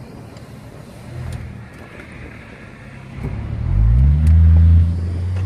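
Toyota Aristo's twin-turbo 2JZ-GTE straight-six heard from inside the cabin, quiet at first, then opening up about three seconds in under hard acceleration. The engine note climbs in pitch and dips briefly near the end.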